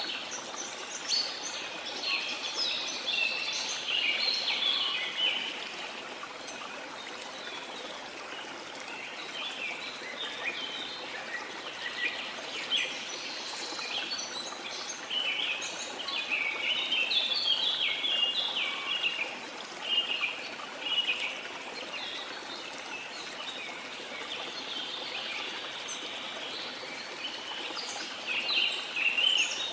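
Steady rush of a waterfall with tropical rainforest birds chirping and trilling over it, many calls overlapping; the birdsong thins out for a while past the middle and picks up again near the end.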